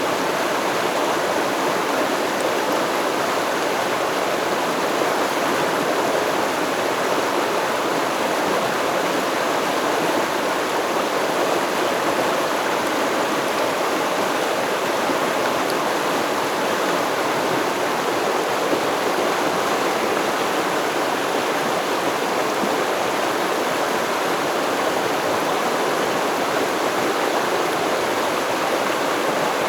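River or stream water flowing and babbling steadily over rocks, a constant rushing wash with no other events.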